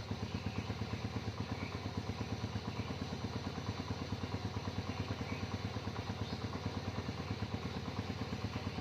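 Motorcycle engine idling steadily with an even, rapid putter.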